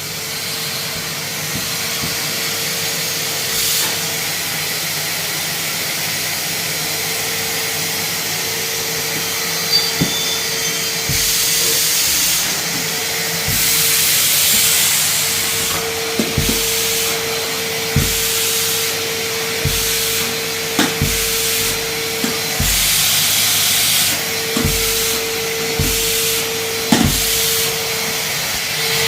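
A Henry vacuum cleaner running, with a steady hum that drops out and returns several times over a rushing hiss of air. Short knocks come now and then, more often in the second half.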